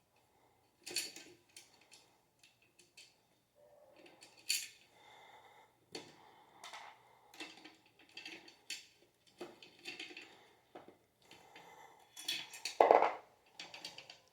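Metal ceiling-fan parts and screws being handled and fitted by hand: a run of irregular clinks and rattles, the loudest a second or so before the end.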